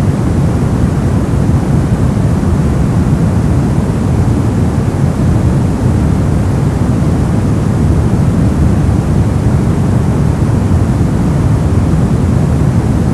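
Brown noise: a steady, even rumbling hiss, heavy in the lows and thinning toward the highs, with no changes or events.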